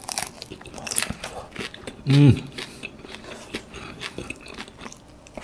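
A person chewing a mouthful of prawn pad thai (prawns and rice noodles), with wet, irregular mouth clicks, and a brief hum of the voice about two seconds in.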